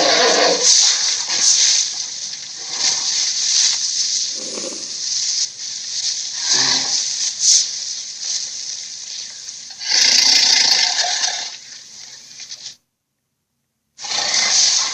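Giant ape creature sound effects: a run of harsh, breathy, hissing vocal sounds that swell and fade several times, louder again around ten seconds in. The sound cuts off suddenly about thirteen seconds in, and after a second of silence a new effect begins.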